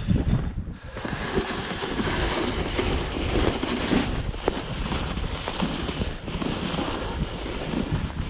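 Wind buffeting the microphone: a steady rushing noise with a fluctuating low rumble.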